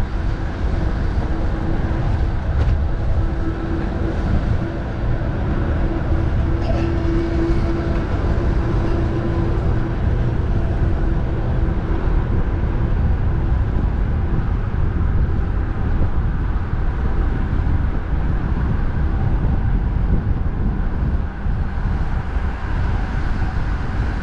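Strong wind buffeting the microphone over the steady rumble of expressway traffic. A steady hum holds one pitch for about the first half, then fades.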